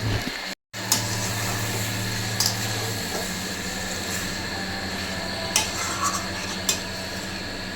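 Stirring in a cooking pot on the stove, with a faint sizzle, over a steady low hum, and a few sharp clicks of a utensil against the pot. The sound cuts out briefly about half a second in.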